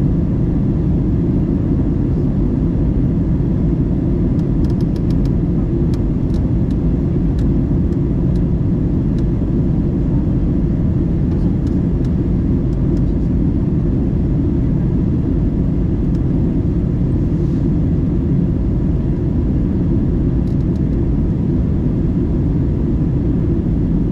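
Steady low cabin noise of an airliner on descent, from its engines and the rushing air, heard from inside the cabin. A few faint light ticks come through now and then.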